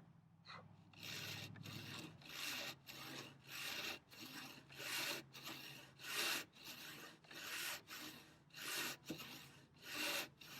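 Handsaw crosscutting a thick wooden workbench leg to length, with steady back-and-forth strokes at about two a second.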